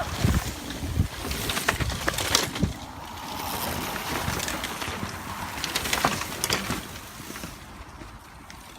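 Mountain bike riding fast down a dirt trail: wind rushing over the microphone with knocks and rattles from the bike over rough ground, quieter in the last second or so.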